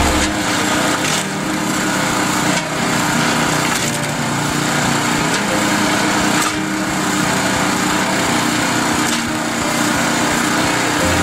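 Homemade motor-driven log splitter running steadily while logs crack and split, with a few sharp cracks through the run.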